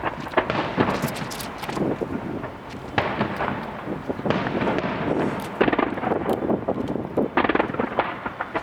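Star mine fireworks barrage: a rapid, continuous run of overlapping bangs and crackles as shells burst, with heavier clusters about three seconds in and again from about five and a half seconds.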